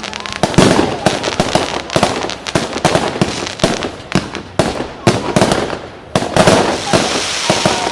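Fireworks display: a rapid, irregular run of bangs and crackles, thickening into a hissing crackle about six seconds in.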